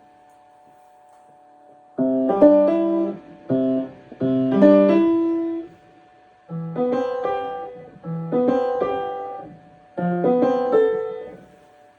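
Piano played in short phrases broken by pauses, starting about two seconds in; near the end the same short passage is played three times over, as in practice.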